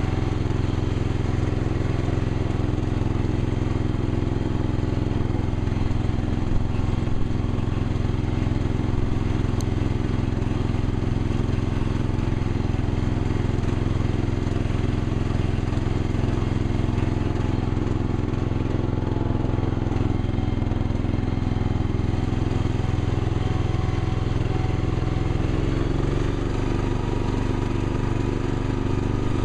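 Gravely garden tractor's engine running steadily, its note dropping slightly lower near the end.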